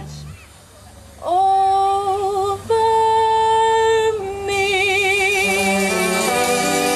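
Swing band music. The band drops out and a woman sings two long held notes with vibrato, then the band, with brass, comes back in under her.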